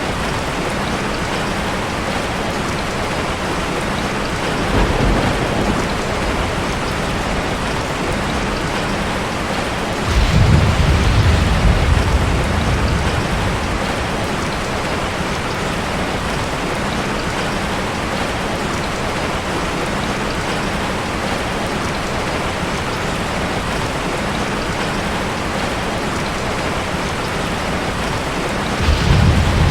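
Steady heavy rain hissing, with low rolls of distant thunder: a faint one about five seconds in, a louder one around ten seconds that lasts a few seconds, and another starting near the end.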